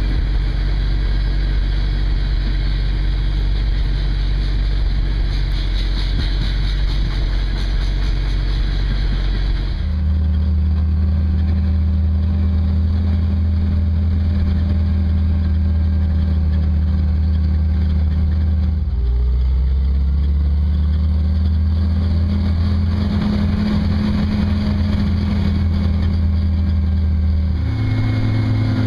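Jeep CJ5's 134 F-head four-cylinder engine running under way, heard from the open-top Jeep, with a steady low drone. Its pitch jumps suddenly about a third of the way in, drops and climbs again around two thirds, and jumps once more near the end, like gear changes.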